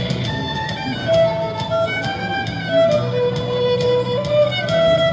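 Violin playing a slow melody of long held notes over a low accompaniment with a steady beat.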